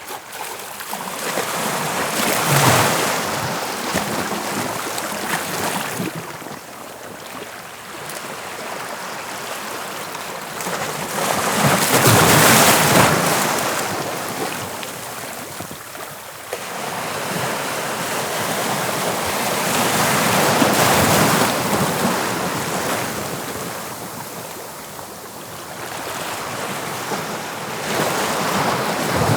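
Sea waves breaking on the shore, the surf swelling and falling back about every eight seconds, with the loudest surge about halfway through.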